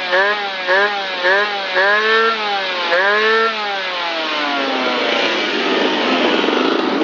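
Old engine revved in quick blips, its pitch rising and falling about twice a second, then two longer revs; after that the pitch slides down and it settles into a rougher, steady run that grows a little louder near the end.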